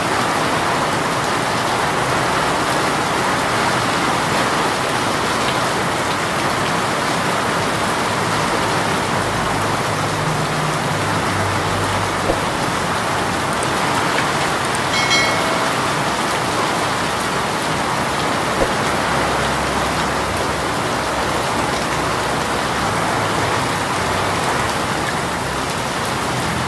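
Heavy rain pouring down steadily, a dense even hiss of drops on surfaces, with a faint low rumble now and then and a brief high pitched chirp about halfway through.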